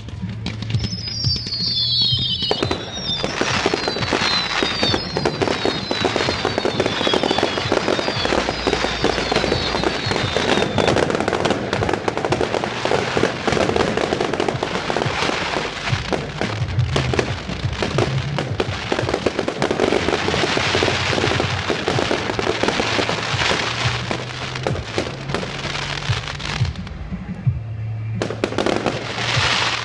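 Fireworks going off in a long, dense barrage of rapid crackles and bangs. In the first ten seconds several whistling fireworks glide downward in pitch. The barrage pauses briefly, then a last burst comes near the end, all over background music with a heavy bass.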